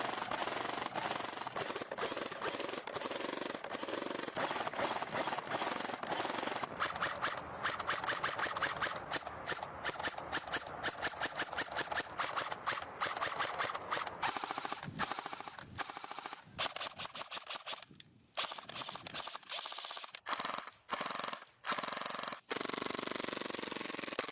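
An airsoft gun firing on full auto in long rapid bursts. Toward the end the firing breaks into shorter bursts and single shots with short pauses between them.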